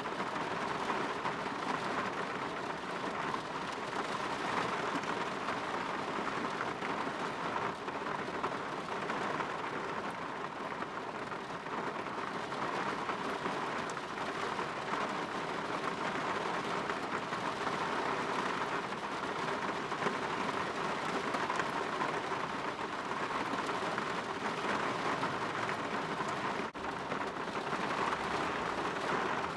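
Rain falling on a window, an even, steady hiss without breaks.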